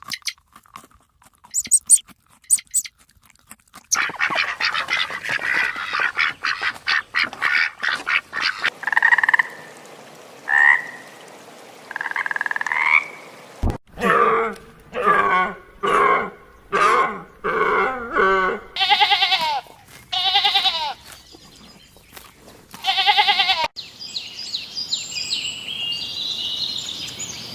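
Frogs croaking: a run of pulsed croaks, with repeated calls about once a second in the second half, among other short animal calls.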